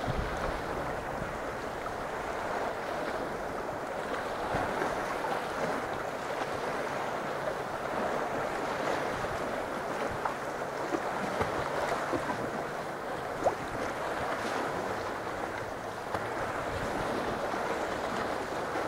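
Sea water sloshing and lapping against a sea kayak, with a steady wash of waves and some wind on the microphone. There is one brief sharper sound about two-thirds of the way through.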